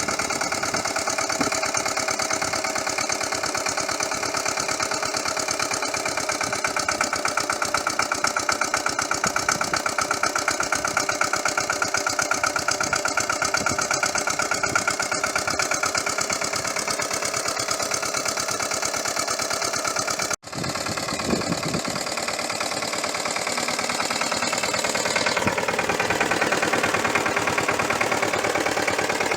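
Pasquali walk-behind tractor's Lombardini LDA96 single-cylinder air-cooled diesel engine running steadily with a rapid, even, knocking firing rhythm. The sound cuts out for an instant about two-thirds of the way through, then the engine carries on.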